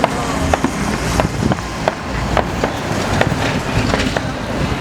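Fireworks going off: a rapid, irregular run of sharp bangs and pops, several a second, over a low rumble.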